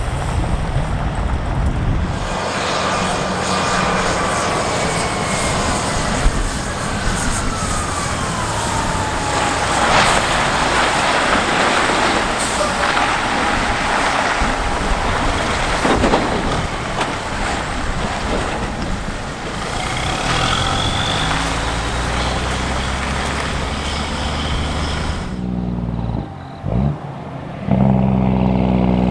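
Heavy trucks hauling race transporters drive past, their diesel engines running, with a whine that falls in pitch over several seconds and short air-brake hisses.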